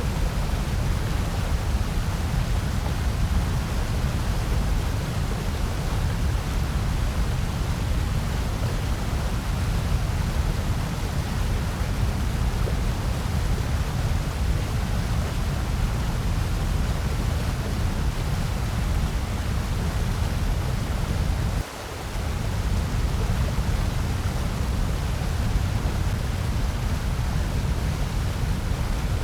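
Steady, electronically generated noise, the kind used for sleep and focus, heaviest in the deep bass with a thinner hiss above. About three-quarters of the way through it dips briefly in level and swells back.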